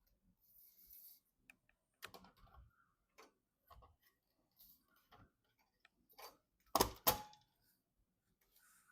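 Irregular small clicks and taps, with two louder knocks close together about seven seconds in.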